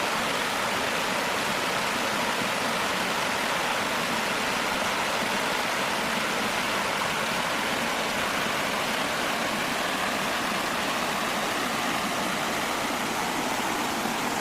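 Steady, even rushing noise with no separate sounds in it, of the kind made by running water or heavy rain.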